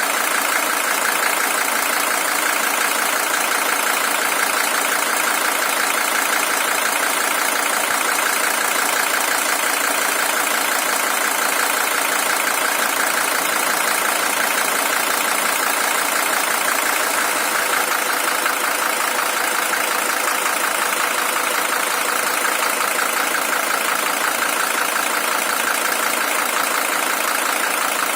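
Mercedes-Benz W123 300TD's OM617 five-cylinder diesel engine idling steadily. It is the original engine, with 620,000 km on it.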